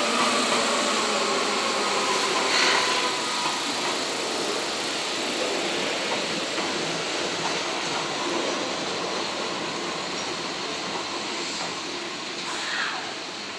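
Seibu 40000 series electric train standing at a station platform over a steady hiss; its doors close with a short clunk about three seconds in. Near the end a brief falling tone sounds.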